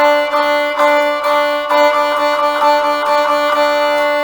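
Viola bowing a 16th-note practice exercise, a run of short notes starting about every half second, played over a recorded accompaniment track with steady held tones.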